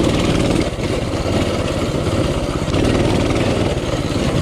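Coleman CT200U pit bike's 196cc single-cylinder four-stroke engine, a lawnmower-type motor, running under throttle while being ridden. It eases off briefly just under a second in and picks up again around three seconds in.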